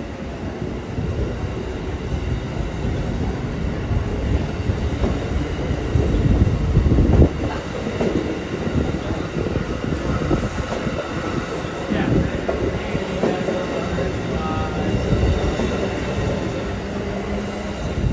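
A train passing close by: a continuous rumble of rail cars rolling over the track, loudest about seven seconds in.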